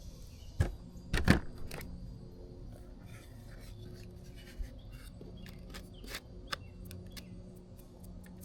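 Small hard objects handled on a workbench: a sharp click about half a second in and a louder clatter just after a second, then scattered light ticks and taps over a steady low hum.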